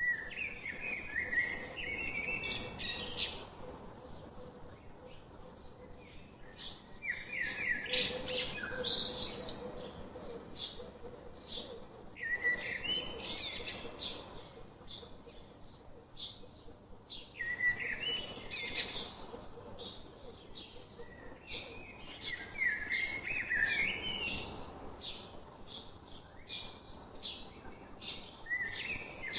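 Birdsong: a song phrase of quick notes that step upward, repeated about every five seconds, with short chirps in between.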